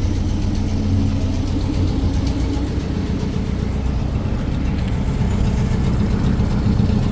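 A car engine running steadily, with a low hum whose pitch shifts slightly partway through.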